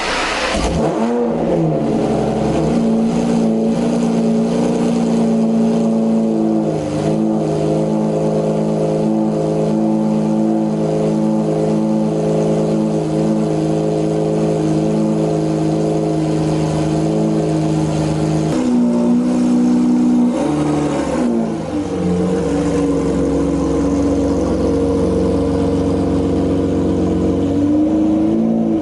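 Cold start of a 2008 Lamborghini Murcielago LP640's 6.5-litre V12 through a straight-piped Fabspeed exhaust. The engine catches with a rev flare about a second in, then runs at a loud, steady fast idle. About two-thirds of the way through, the idle note shifts and settles into a different steady idle.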